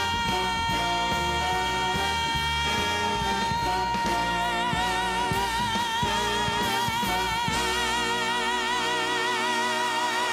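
A female singer holds one long, high final note over the band's accompaniment. The note is steady at first and takes on a wide vibrato from about four seconds in. Voice and band stop together near the end.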